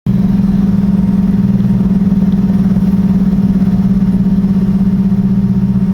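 Airliner cabin noise in flight: a steady engine drone with a strong, slightly pulsing low hum over an even rush of air.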